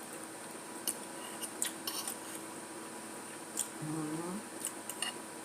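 Eating sounds: scattered sharp clicks and smacks of chewing and of cutlery against a plate. About four seconds in comes a short hummed 'mm' that rises in pitch.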